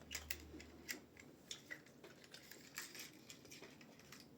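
Faint, irregular clicks and smacks of someone eating dumplings: chewing and mouth sounds.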